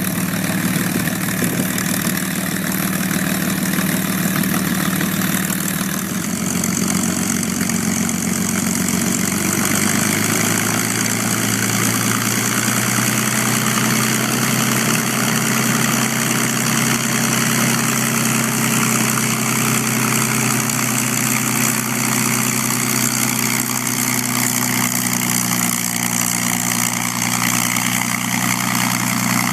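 P-51B Mustang's Packard Merlin V-12 engine running at low power. Its note steps up a little about six seconds in, then holds steady.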